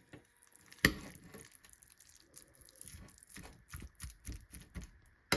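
Plastic packaging of a microwaved frozen meal tray being handled, crinkling and tearing in many short irregular crackles, with a sharp tap about a second in.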